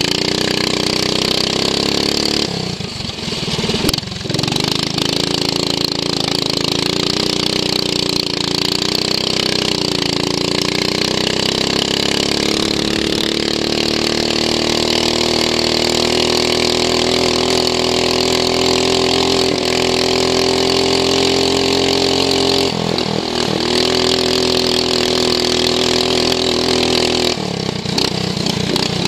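Racing lawn mower's engine heard onboard, running hard and steady, with its pitch dropping briefly a few times and climbing back as the throttle comes off and on again. A rushing noise runs underneath the engine note throughout.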